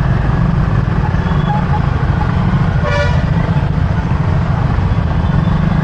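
Steady low rumble of a motorbike riding in road traffic, with a short, single vehicle horn toot about three seconds in.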